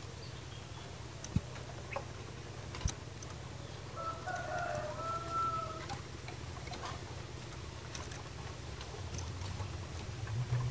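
A single drawn-out bird call, about two seconds long, starting about four seconds in, over a low steady hum; a few sharp clicks come before it.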